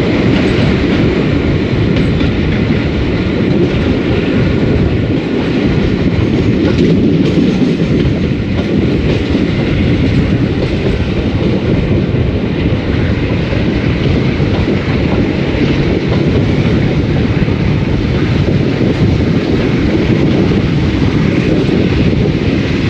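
A train running, heard from a coach just behind the Class 52 diesel-hydraulic locomotive D1015 Western Champion: a loud, steady rumble of its Maybach engines mixed with the clatter of wheels on the rails.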